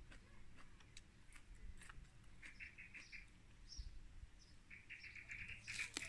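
Faint bird chirping: two quick runs of short, repeated high notes, the second longer and just before the end.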